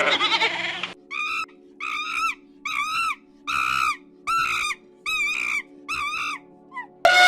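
An animal calling in a run of short, quavering calls, about one every 0.7 seconds, then a louder, longer call that falls in pitch near the end.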